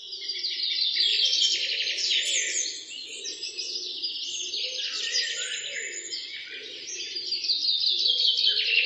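Bird chirping and twittering without pause, in fast high trills that rise and fall.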